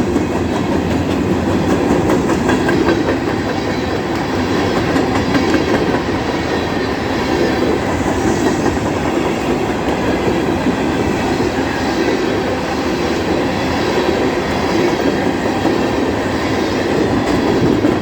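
Cars of a Bessemer & Lake Erie ore train rolling past close by: a loud, steady rumble and clatter of steel wheels on the rail with a rapid run of clicks.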